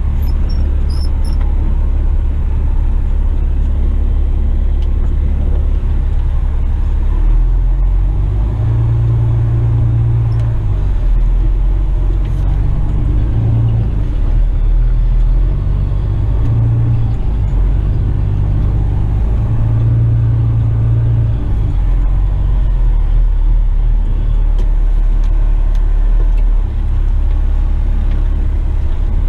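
Western Star tipper truck's heavy diesel engine running as the truck drives along a site track, heard from inside the cab. It is a steady low drone, and its note rises and falls between about 7 and 22 seconds in.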